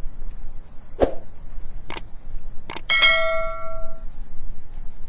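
Three sharp clicks, then a bright metallic ding that rings for about a second before fading, over a steady hiss.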